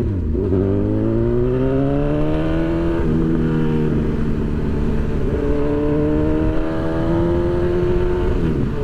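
Honda CB1000 motorcycle's inline-four engine pulling through the gears. The revs climb for about three seconds, drop at an upshift, then climb slowly again until another shift near the end.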